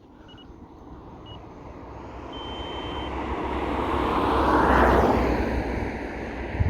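A road vehicle passing by, its noise building for about five seconds to a peak and then fading away. Short high beeps sound a few times in the first three seconds, and there is a sharp thump near the end.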